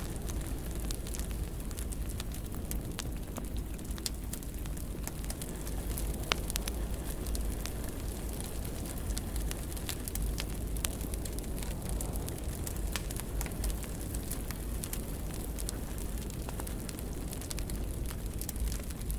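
Wood fire burning in a fireplace: a steady low rumble and hiss of flames with frequent irregular crackles and pops, one sharper pop about six seconds in.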